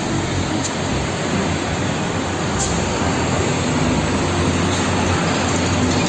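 Road traffic: concrete mixer trucks and motorbikes driving past, a steady engine and road noise with a low rumble.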